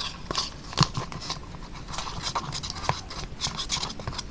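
A spoon scratching and clicking against a plastic cup, stirring a glue-and-lotion slime mixture, in an irregular run of short scrapes and ticks.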